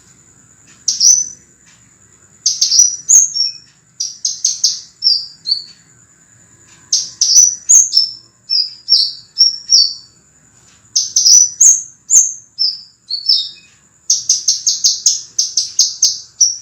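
Scarlet minivet (sepah raja) song: phrases of clear, high, sharp chirping notes separated by short pauses, with a fast run of tightly packed notes about two seconds from the end.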